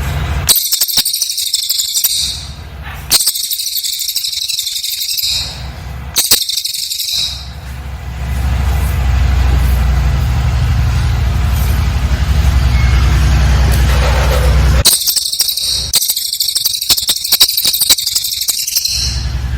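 Cililin songbird firing rapid, dense high-pitched chattering bursts: four bursts of one to four seconds, separated by pauses filled with a steady low hum.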